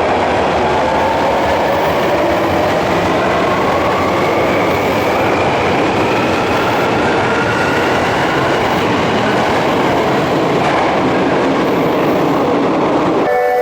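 Subway train pulling out of an underground station: a steady rumble of wheels on rail, with the motor whine rising slowly in pitch as it accelerates.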